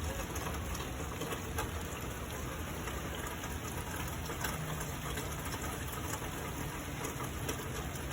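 Steady rain falling, a continuous hiss with scattered single drop impacts.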